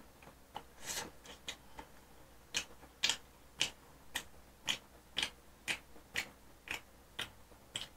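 Close-up chewing: faint wet mouth clicks, scattered at first, then settling into a steady rhythm of about two chews a second.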